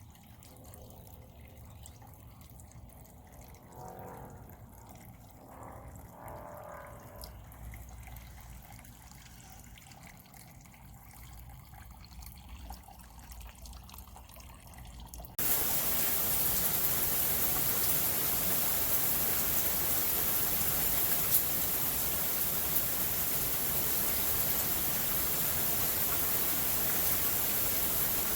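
Faint dripping and trickling water, then about halfway through a sudden cut to a loud, steady hiss of heavy rain.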